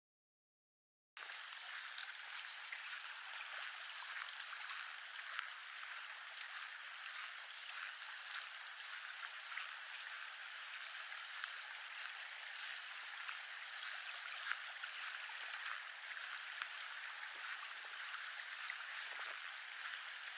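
Mountain stream running: a steady rush of water that starts about a second in, with a few faint high chirps over it.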